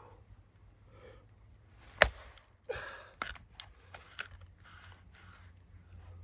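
A single sharp knock about two seconds in, the loudest sound, followed by a brief rustle and a few lighter clicks and taps.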